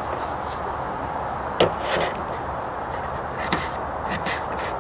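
A knife dicing raw potato, giving a few separate cutting knocks about one and a half, two and three and a half seconds in and near the end, over a steady hiss.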